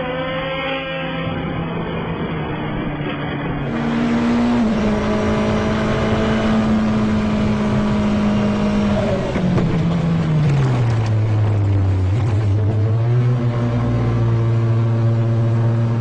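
Racing engines running at high revs. About four seconds in, the sound changes abruptly to a single race engine holding a steady high note; between about nine and eleven seconds in its pitch falls to about half and then holds steady again.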